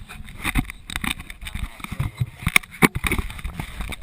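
Irregular clicks and knocks over a low rumble, the kind of noise made by handling parts and tools close to the microphone.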